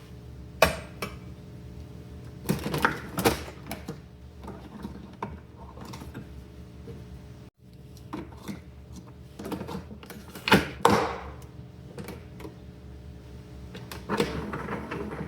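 Scattered light clicks, knocks and clatter of small objects being handled, over a steady low hum.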